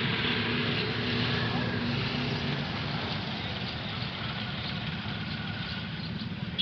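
A motor vehicle's engine running steadily; its low hum fades out about halfway through, leaving a steady rushing noise.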